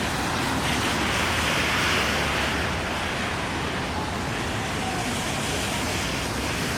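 Steady rain and traffic noise on a wet city street. About a second in, a hiss like tyres on wet pavement swells, then fades by about three seconds.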